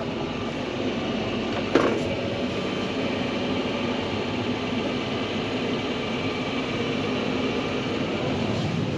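Fendt tractor driving, heard from inside its closed cab: a steady engine and drivetrain hum. One sharp click about two seconds in.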